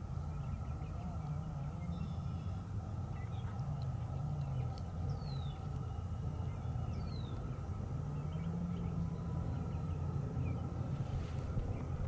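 Outdoor field ambience: a steady low rumble and hum, with a few faint, short, descending bird chirps a few seconds in.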